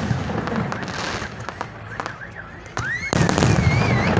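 Aerial fireworks bursting overhead, a dense run of crackles and pops that gets louder about three seconds in. A rising whistle comes just before the louder part.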